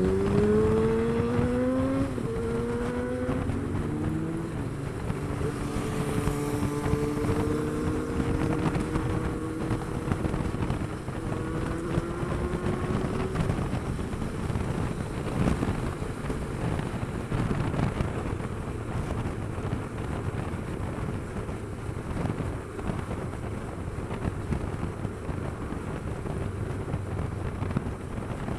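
Motorcycle engine accelerating hard through the gears, the revs climbing and dropping at each upshift over the first few seconds, then held at a steady pitch. Later, wind rushing over the microphone covers most of the engine.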